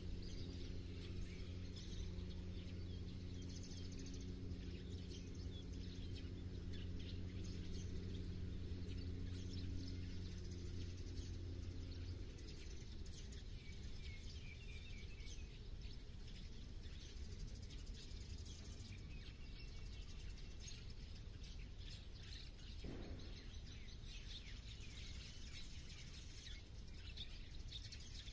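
Several small birds chirping and calling over steady background noise, with a low steady hum underneath that stops about halfway through.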